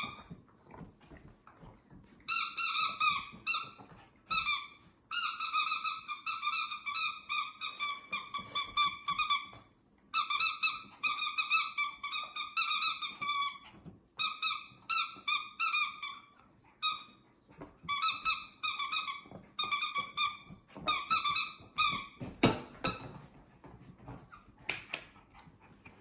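Rubber squeaky dog toy squeaked over and over in quick runs, one steady high pitch, as the Yorkshire Terrier puppy chomps on it, with short pauses between runs.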